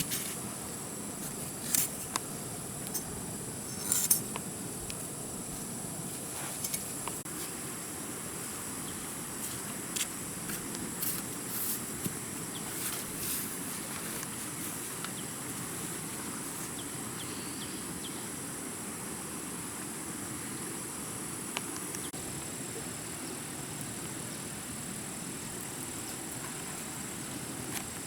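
A steady, high-pitched insect chorus over a low, even hiss, with a few sharp clicks and knocks; the loudest come about two and four seconds in.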